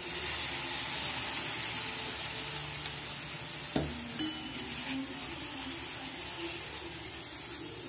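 Shredded cabbage, carrot and bean filling sizzling in a hot pan as soy sauce is poured in and stirred with a steel spatula; the sizzle is strongest at first and slowly dies down. A little under four seconds in the spatula clinks sharply against the pan, followed by a light metallic ring.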